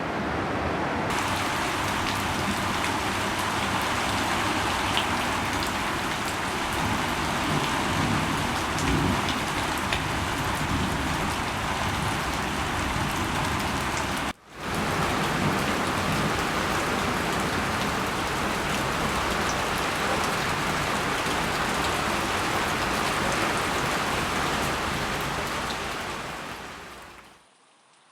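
Steady rain falling and pattering on surfaces, a dense even hiss. It cuts out abruptly for a moment about halfway, then resumes and fades out near the end.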